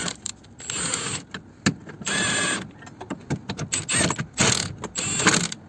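Power impact gun whirring in about four short bursts of half a second or so, slackening the subframe bolts a little, with clicks and knocks of tools between the bursts.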